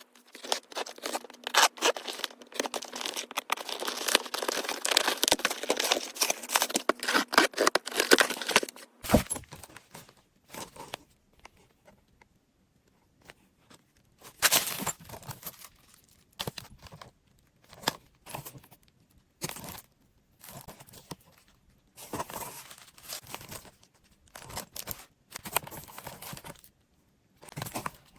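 Packaging being opened by hand: continuous tearing and crinkling for about the first nine seconds, then separate short rustles and clicks as the package is handled.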